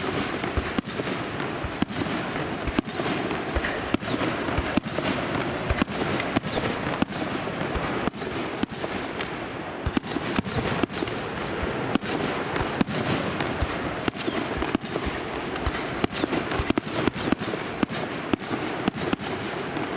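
Aerial fireworks going off in a rapid, irregular barrage: sharp bangs, often two or more a second, over a continuous dense crackle.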